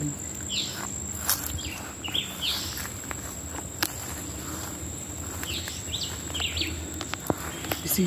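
Birds calling in a tree canopy: short, bright chirps that sweep down in pitch, a few at a time, over a steady high-pitched buzz, with a few sharp clicks.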